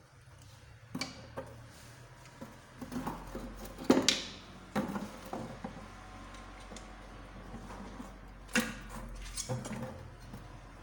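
Metal engine parts and hand tools clinking and knocking as they are handled and set down, with one loud knock about four seconds in and another near the end.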